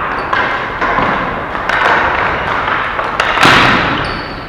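Ball hockey play: sharp taps and thuds of sticks and the ball over a constant din, with one loud bang about three and a half seconds in that echoes briefly.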